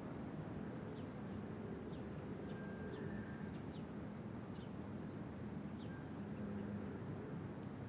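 Outdoor ambience: about ten short, high bird chirps scattered over a steady low hum.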